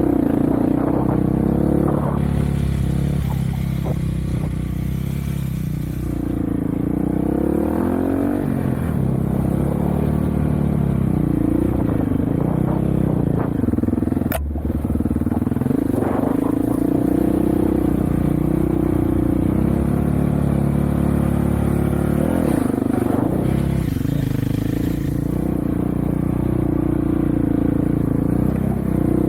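Off-road vehicle engine running under load, its pitch rising and falling again and again as the throttle is worked. There is a sharp click about halfway through.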